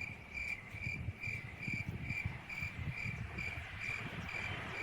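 Cricket chirping: a steady, even run of high-pitched chirps, about two a second, that begins suddenly.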